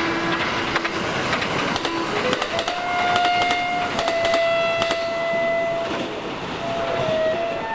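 Train running on rails, with rapid clicks and rattling over the track throughout. A held tone sounds in the middle for about three seconds, changing pitch a couple of times.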